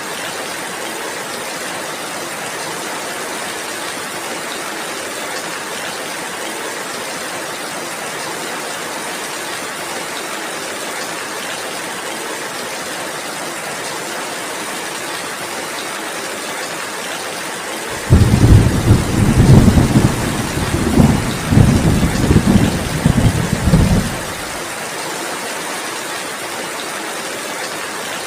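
Steady heavy rain, with a clap of thunder about two-thirds of the way through: it starts suddenly, rolls low and loud in several surges for about six seconds, then dies away, leaving the rain.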